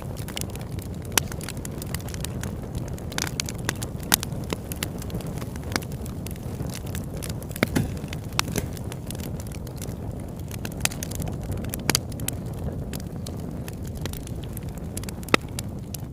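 Campfire crackling, with frequent sharp irregular pops over a steady low rumble.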